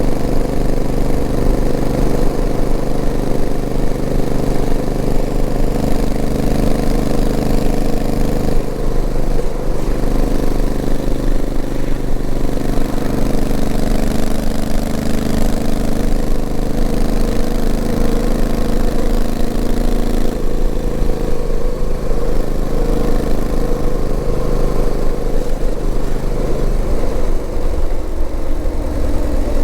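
Honda CRF1000L Africa Twin's parallel-twin engine running under way at low speed, heard on the bike. The engine note shifts in steps about a third and two thirds of the way through and drops near the end.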